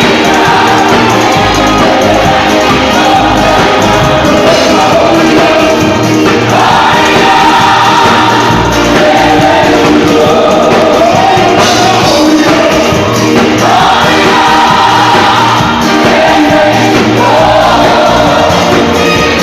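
Live gospel worship music: a band with a steady bass beat and several voices singing.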